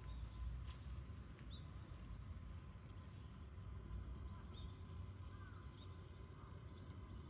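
Faint, scattered short bird chirps over a steady low rumble of outdoor background noise.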